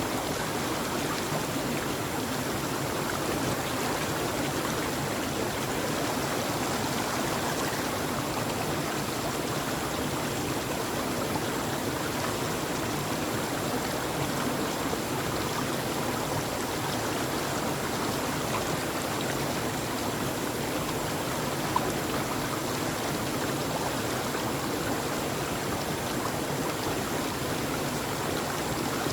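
Steady, unbroken rush of running water, like a flowing stream, with one brief click about three quarters of the way through.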